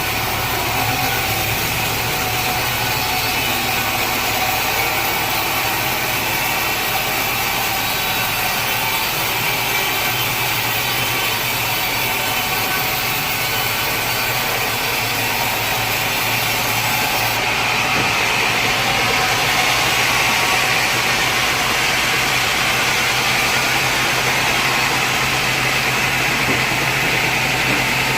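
Sawmill machinery running steadily: a constant motor hum under a saw's hiss, which grows louder and higher about two-thirds of the way through.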